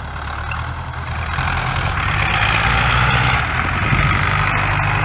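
Tractor diesel engine running, getting louder about a second and a half in as it is worked harder while stuck in mud, with a rushing noise over the engine sound.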